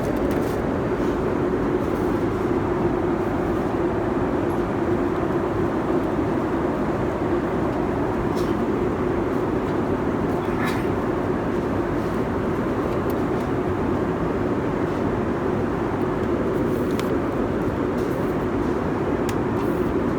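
Steady cabin noise of a Boeing 747-400 in cruise flight: an even rushing drone with a constant low hum, and a couple of faint clicks.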